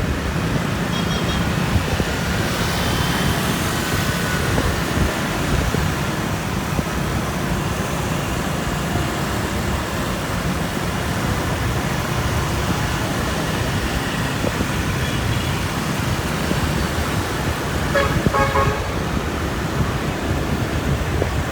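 Street traffic heard from a moving motorbike: steady engine and road noise, with short horn toots now and then, the loudest about eighteen seconds in.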